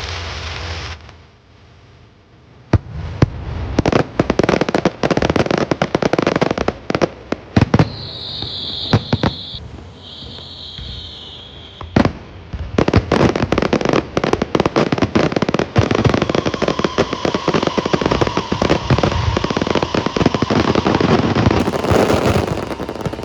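Aerial fireworks going off in dense, rapid volleys of bangs and crackling, starting a few seconds in. Two brief high whistles sound about eight to eleven seconds in.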